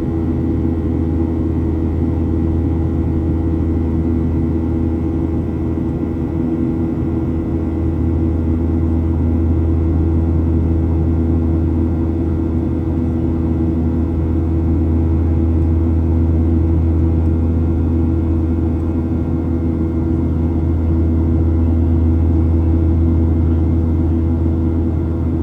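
Steady cabin drone of a Boeing 737-700 with its CFM56 turbofan engines running: a strong low hum with steady tones above it and a rush of noise, swelling slightly at times.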